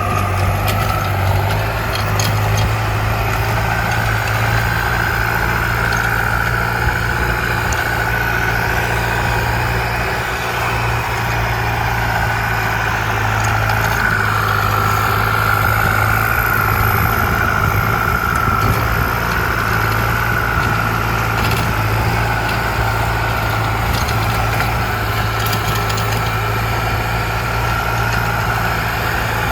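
ZT 155 tractor engine running steadily at constant speed, a low drone with a high whine riding above it that lifts slightly a few seconds in.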